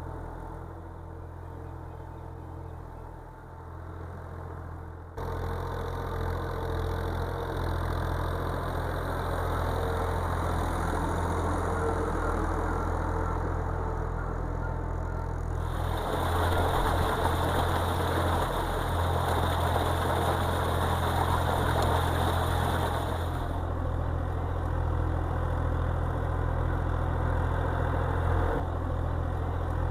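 Tractor engine running steadily at low revs. It jumps in level abruptly about five seconds in, and gets louder and rougher for several seconds around the middle.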